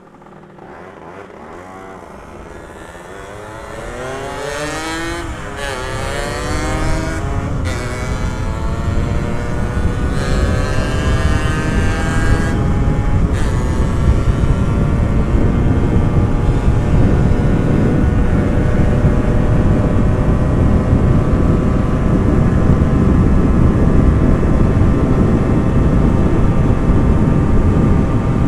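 Two-stroke motorcycle engine accelerating hard through the gears: the pitch climbs, drops at each upshift over the first dozen seconds, then holds a steady high note at speed. Wind rush on the microphone grows as the speed builds.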